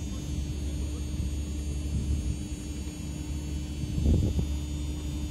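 Steady low rumble and hum of a passenger train standing at a platform, with a faint high whine above it and wind on the microphone. A brief louder muffled sound comes about four seconds in.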